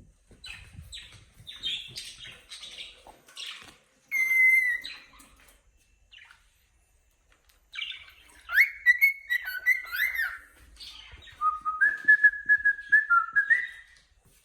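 Cockatiel chirping and whistling: scratchy chirps at first, a short loud whistle about four seconds in, then after a pause a run of whistled notes that glide and step between pitches.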